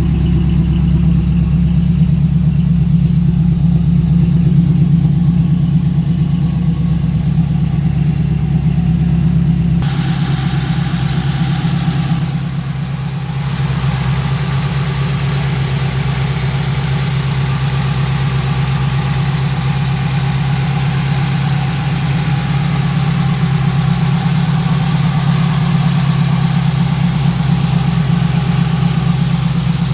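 1968 Chevrolet Camaro engine idling steadily. About ten seconds in, the sound turns brighter and hissier.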